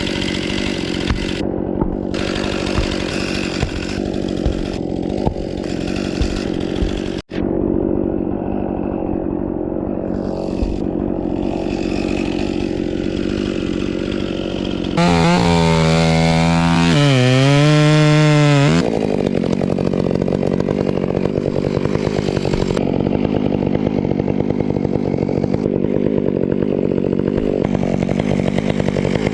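Two-stroke chainsaw running at full throttle, cutting through a fir stem; from about 15 to 19 seconds in the engine pitch swings up and down as the saw revs.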